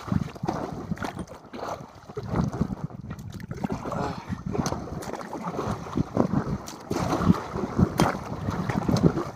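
Water splashing and sloshing around a kayak as it is paddled, with wind buffeting the microphone and irregular sharp knocks.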